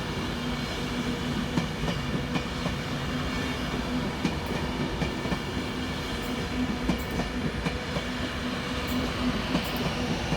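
Virgin Trains Class 390 Pendolino electric train pulling out, with a steady hum and irregular clicks from its wheels on the track.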